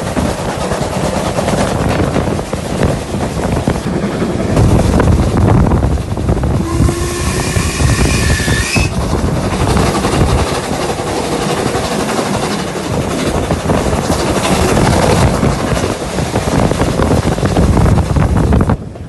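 Heritage train running, a steady loud rumble of carriages and wheels on rail, with a high-pitched tone sounding for about two seconds midway.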